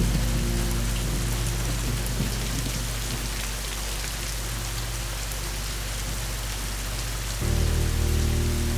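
Steady rain falling, with a low sustained music drone underneath that swells back up about seven seconds in.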